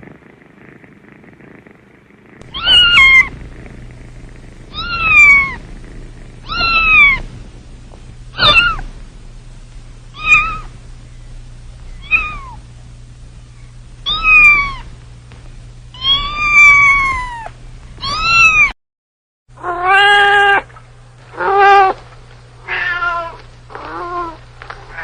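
Cat meowing repeatedly, about nine drawn-out meows that rise and fall in pitch, one every couple of seconds. After a sudden brief break, a lower-pitched cat meows in five shorter calls.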